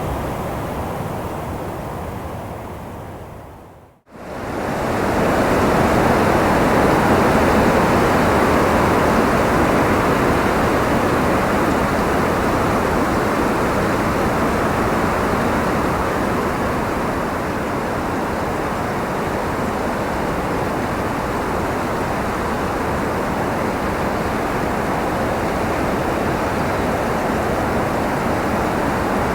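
Steady wind noise, an even rushing hiss with no gusts or tones. About four seconds in it fades out to a brief silence and swells back up again.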